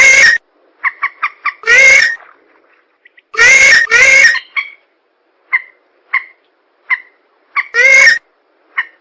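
Recorded lure calls of marsh birds, rails among them, played loud. Harsh squawking calls about a second long come about four times, with a quick run of five or so short notes after the first and single short notes spaced out in between.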